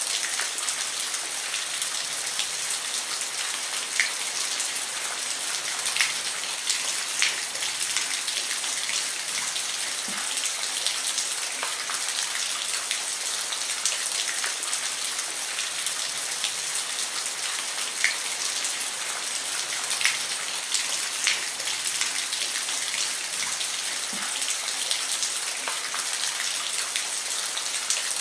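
Steady rain falling on a roof: an even hiss of rainfall with scattered sharper drip ticks, a few of them louder.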